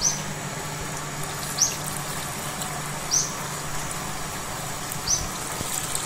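A small bird calling with a short, high chirp, four times, about every one and a half to two seconds, over a steady background hiss.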